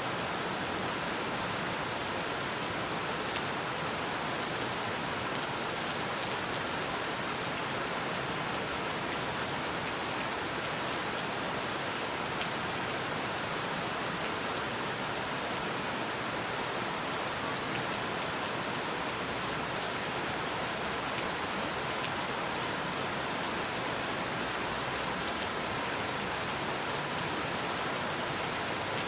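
Steady rainfall, an even hiss of rain with fine scattered drop ticks.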